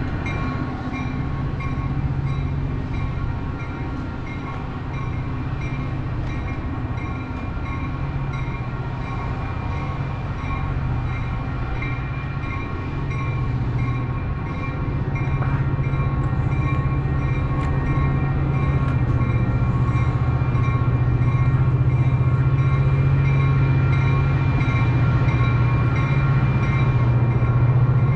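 Metra double-deck commuter train rolling through a level crossing. Its low, steady running drone grows louder in the second half, while the crossing's warning bell rings in quick, even, repeated strokes.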